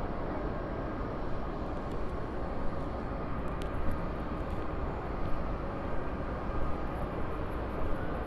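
Steady rumble and hum of a railway station with trains, with a few faint held tones and a faint click about three and a half seconds in.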